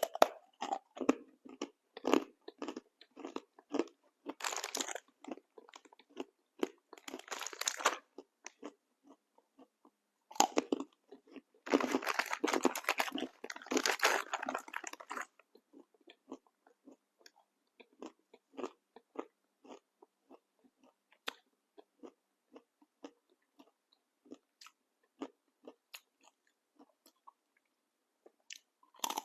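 Someone biting and chewing a crunchy snack close to the microphone. There are two spells of loud, dense crunching, the first for the first several seconds and the second from about ten to fifteen seconds in, then softer, scattered chewing clicks.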